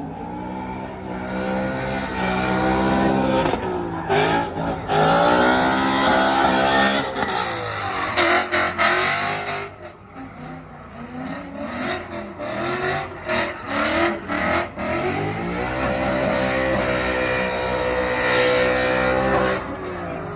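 Car engine revving up and down several times over tyre squeal.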